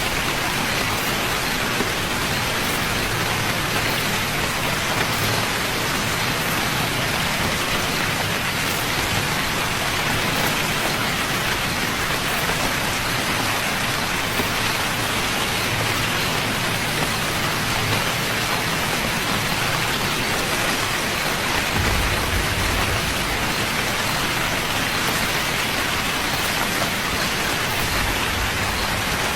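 Steady rain falling, an even hiss of many drops with no letup. About two-thirds of the way through, a short low rumble rises under the rain.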